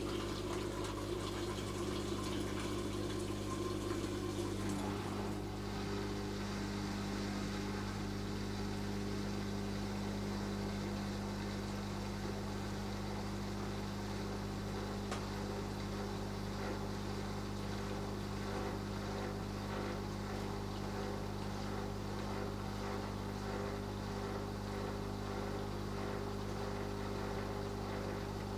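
Beko DWD5410W dishwasher's pump running steadily mid-cycle, a constant motor hum with water swishing inside the tub; the water sound grows about five seconds in.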